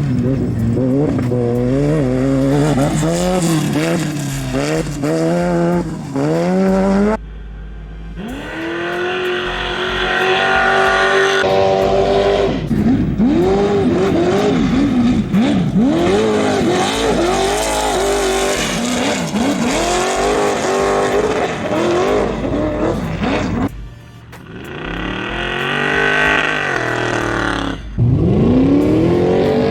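Race-prepared off-road engines of Trophy Trucks and Class 1 buggies revving hard and accelerating away from a race start. The pitch climbs and drops again and again through the gears as vehicles leave one after another. The sound breaks off abruptly several times and picks up with the next vehicle.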